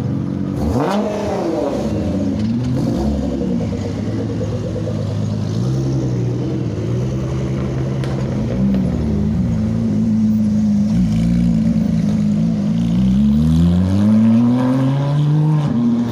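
Sports car engines revving and accelerating as the cars drive past. A sharp rise in revs comes about a second in, the revs waver up and down around the middle, and a long rising rev builds near the end, where it is loudest.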